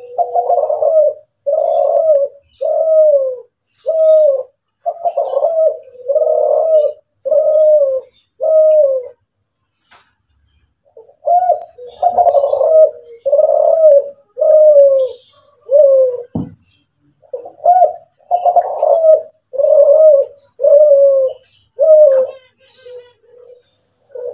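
Kelantan derkuku (spotted dove) cooing, a long run of deep coos about one every second, with a pause of a couple of seconds near the middle before it resumes. Faint high chirps of small birds sound in the background.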